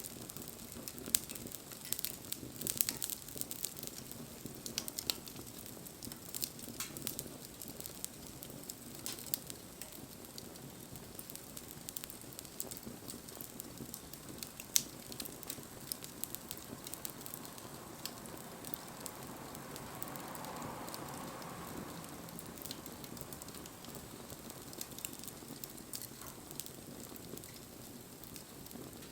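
Wood campfire burning, with sharp crackles and pops over a steady low rush of flame. The pops come thickest in the first third, and a soft hiss swells and fades about two-thirds of the way in.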